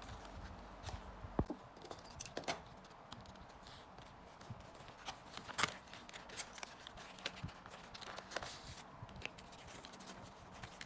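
Photocards and plastic packaging being handled on a table: scattered light clicks, taps and rustles, with the sharpest taps about a second and a half and five and a half seconds in.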